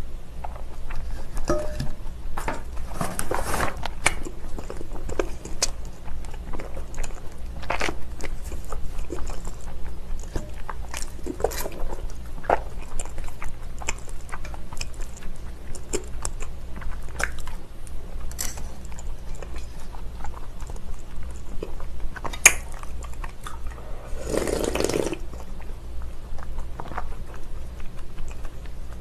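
Close-miked chewing and eating of spicy cold buckwheat noodles, a steady run of small wet clicks and mouth noises. A brief louder rush of sound comes about 24 seconds in.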